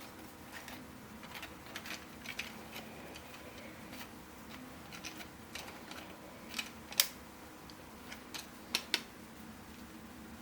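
3D-printed plastic puzzle pieces clicking and tapping against each other as they are handled and snapped together, with a sharp click about seven seconds in and two more near nine seconds. A faint steady hum runs underneath.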